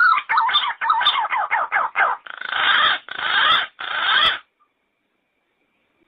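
Yellow-footed green pigeon calling: a fast stutter of short, wavering notes that turns into three longer, harsh grating notes, then stops about four and a half seconds in.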